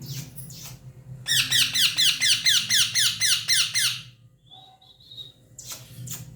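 Parrot giving a rapid run of harsh, repeated calls, about five a second for nearly three seconds, followed by a short whistled note.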